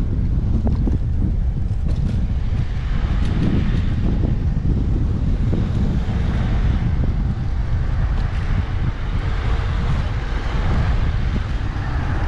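Wind rushing over the microphone of an action camera mounted on a moving bicycle, a steady low rumble.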